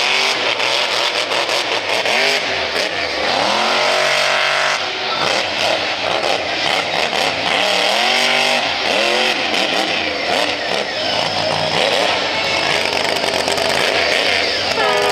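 Monster truck engine revving hard, its pitch climbing and dropping several times, with a sharp climb near the end.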